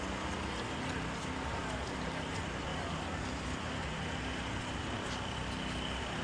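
Steady background noise of a busy city street, a constant hum of traffic with no single sound standing out.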